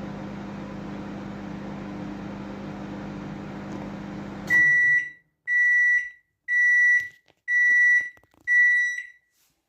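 Microwave oven running with a steady low hum that cuts off about halfway through, followed by five loud, evenly spaced beeps, about one a second, signalling the end of the heating cycle.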